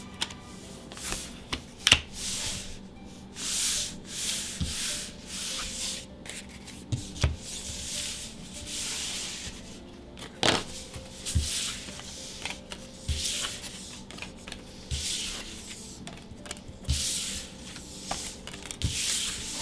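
Magic: The Gathering trading cards being slid one at a time off a stack, a papery swish every second or two, with light clicks and taps between them.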